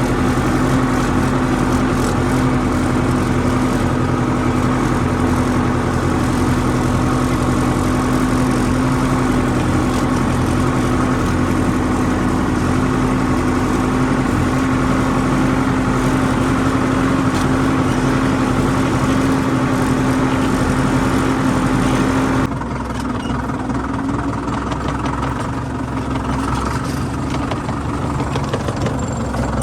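Tractor engine running steadily with a strong held hum. About three-quarters of the way through it cuts off suddenly and a quieter, different engine sound takes over.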